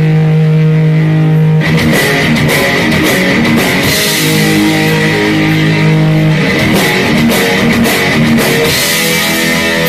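Live heavy metal band playing loud: a held chord rings alone at first, then drums and cymbals crash in with the full band about a second and a half in.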